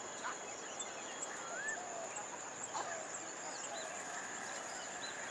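A steady, high-pitched insect drone holds as one unbroken tone, with short bird chirps and whistles scattered over it.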